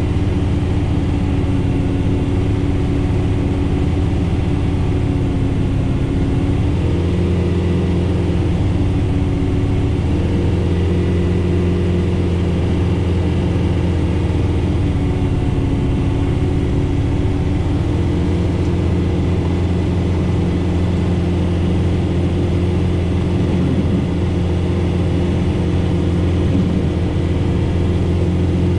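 John Deere 4066R tractor's diesel engine running steadily under load, driving a Frontier SB1174 three-point snowblower through heavy wet snow, heard from inside the cab. The engine note shifts slightly a few times.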